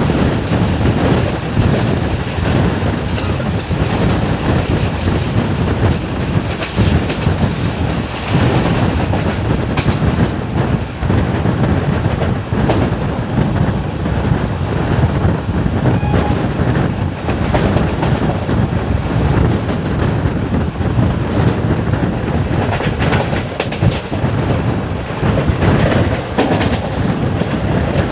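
Passenger train coaches running at speed: a steady rumble of wheels on the rails with rapid clickety-clack over the rail joints.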